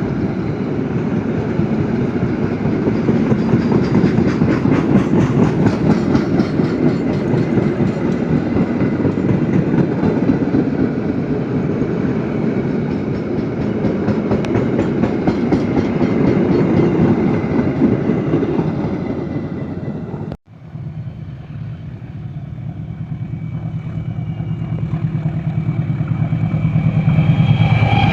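Diesel train running on the rails with a dense rumble and clatter of wheels. About twenty seconds in it cuts off suddenly and gives way to a locomotive's engine running with a steady low hum that grows louder toward the end.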